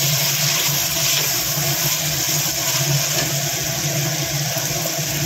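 Chopped tomatoes, onions and greens sizzling steadily in hot oil in an aluminium pressure cooker while being stirred with a wooden spatula, under a steady low hum.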